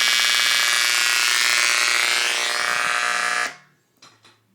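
First-generation KRK RP5 studio monitor's tweeter giving out a loud, ear-piercing screech of many high tones with nothing connected but the power cord; it cuts off suddenly about three and a half seconds in. The sound is a fault in the monitor itself, which the owner says is not a ground loop.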